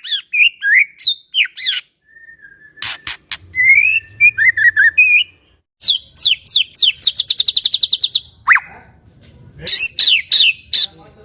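White-rumped shama (murai batu) singing a loud, varied song of whistled phrases that rise and fall, broken by a few sharp clicks. Partway through comes a fast trill of repeated notes, about nine a second.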